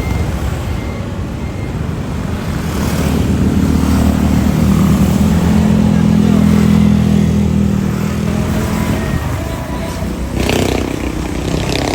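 Jet engines of a departing Boeing 787-9 airliner: a steady low drone that swells over a few seconds, peaks, then fades. About ten seconds in the sound changes abruptly.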